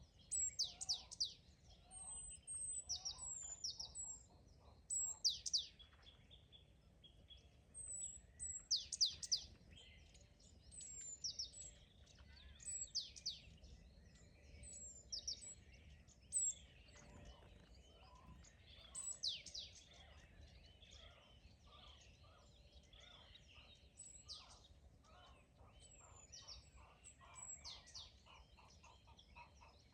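Several songbirds singing, with many short, high, downward-sweeping notes overlapping one another. Near the end a rapid run of lower repeated notes joins in.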